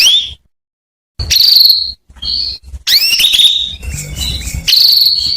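Female canary calling: short, high chirps that sweep upward, spaced out at first. From about three seconds in they become a denser, continuous run of twittering calls. This is the kind of call played to lure a male canary into song.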